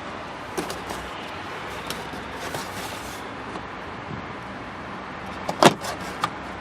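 Clicks and a sharp knock from the plastic trim and latches in an SUV's cargo area being handled, the loudest knock about five and a half seconds in, over a steady low hum.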